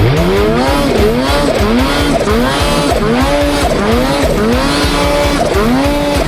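Snowmobile engine revved up and down over and over, about nine rising pitch sweeps one after another, each climbing and then falling back.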